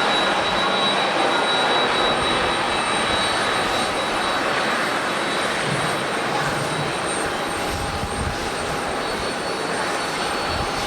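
Airbus A320neo airliner's jet engines at takeoff thrust, a loud steady rush that slowly fades as the aircraft departs.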